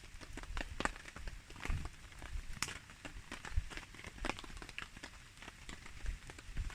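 Wood campfire crackling, with sharp pops at irregular intervals, the loudest about two and a half seconds in, under the steady patter of rain.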